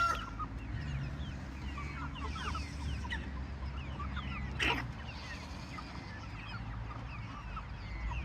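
A flock of meat chickens peeping and clucking: many short falling chirps, with one louder call about four and a half seconds in.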